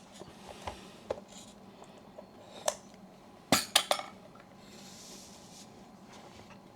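Light clicks and clinks of small metal tools and camera parts being handled on a workbench while a cut light seal is checked for fit. A few scattered taps come first, then a quick cluster of clicks about three and a half seconds in, then a brief soft rustle.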